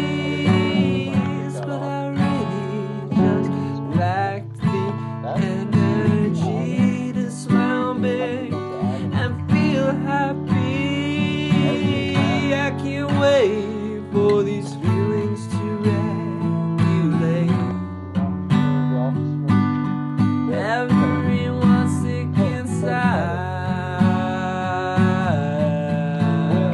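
Acoustic guitar music, strummed, with a melody line moving above the chords.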